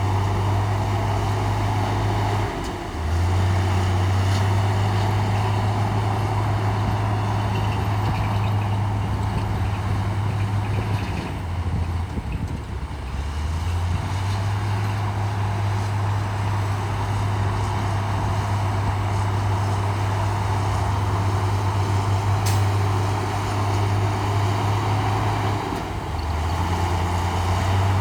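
A bulldozer's heavy diesel engine runs steadily under load while pushing soil. Its low note drops and recovers as the load changes: briefly near the start, for a few seconds in the middle, and again near the end.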